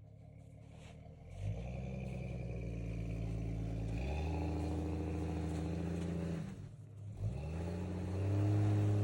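Jeep Grand Cherokee engine revving in repeated pushes as the vehicle is eased forward into position. The revs rise about a second and a half in, are held, fall away near the seven-second mark, then rise again louder near the end.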